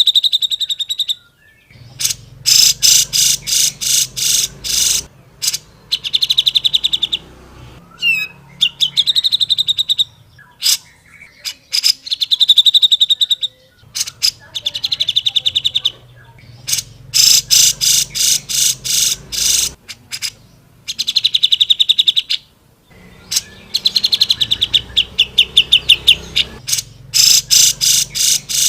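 Grey-cheeked bulbul (cucak jenggot) singing in rapid trains of sharp repeated chirps, in bursts of one to two seconds with short breaks between them.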